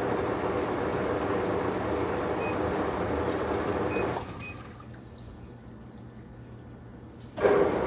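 Water running into a Magic Chef portable washing machine as it fills, with three short electronic beeps from its control panel. The flow cuts off about four seconds in, leaving a faint steady low hum, and starts again suddenly near the end.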